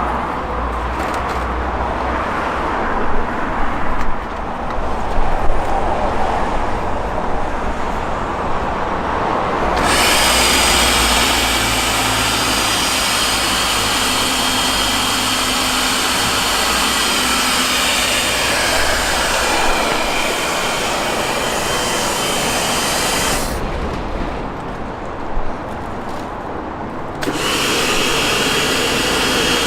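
Pressure washer spraying a car: the motor runs steadily and the hiss of the water jet switches on about a third of the way in, stops briefly near the end, then starts again.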